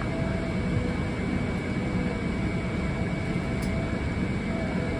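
Steady airliner cabin noise inside a Boeing 777-300ER: an even rush of air-conditioning and engine noise, with a faint steady high whine.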